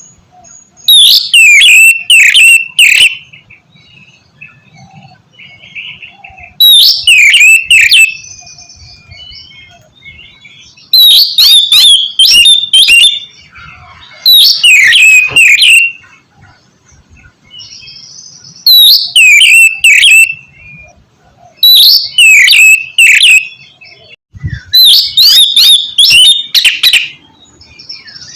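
Oriental magpie-robin singing loud bursts of fast, rapidly gliding whistles and chattering notes, each about two seconds long, seven times with short quieter gaps between them.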